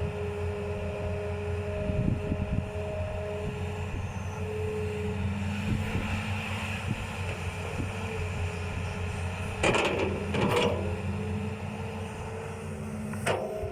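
Hitachi ZX200-5G excavator's six-cylinder Isuzu diesel running steadily while the machine digs, with a steady hum and whine. A few brief clunks come about ten seconds in and again near the end.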